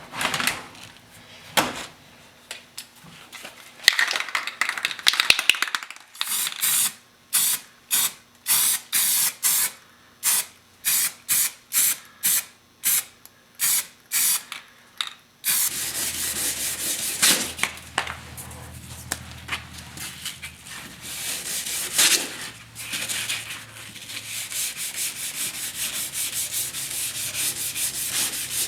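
Hand sanding of fresh primer on car body panel with sandpaper: rasping back-and-forth strokes, about two a second through the middle, then turning into continuous, faster rubbing with a low hum under it for the second half.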